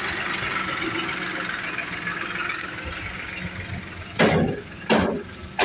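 Massey Ferguson 7250 DI tractor's diesel engine running steadily, easing slightly in level. Near the end three loud, short bursts come about a second apart over it.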